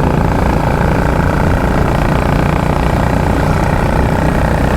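Royal Enfield Classic 350's single-cylinder engine running on the move, its exhaust giving the steady beat that its rider calls a helicopter sound.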